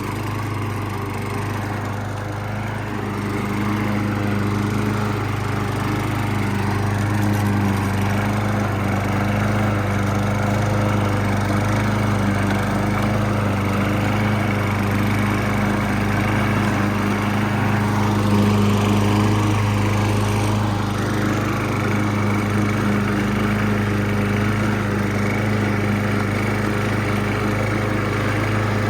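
Toro Recycler 20066 walk-behind mower's single-cylinder Briggs & Stratton Quantum engine running steadily with the blade spinning, pushed along in mowing passes; it gets a little louder a few seconds in.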